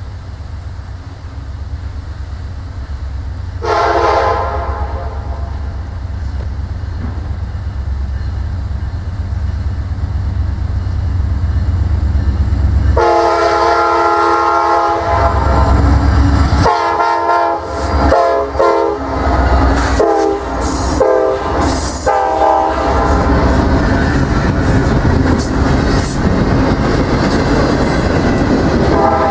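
Diesel locomotive approaching with its low engine rumble building, sounding a chime air horn with several notes at once. There is a short blast about four seconds in, a long blast around the middle, then a string of shorter blasts, after which the train's cars roll past with clickety-clack on the rails.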